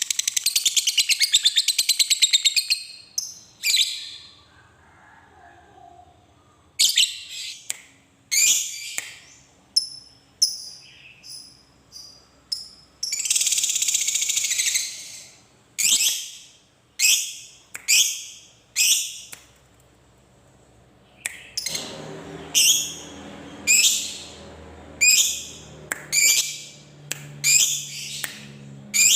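Lovebird ngekek: long rapid chattering trills, one at the start and another about halfway through, with short sharp high calls between them that come about once a second near the end.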